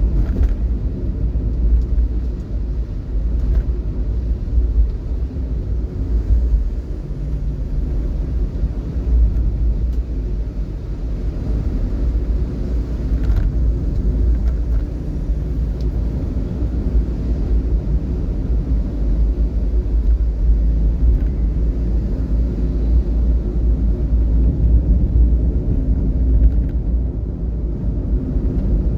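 Steady low rumble of a vehicle driving, engine and road noise with no sharp events.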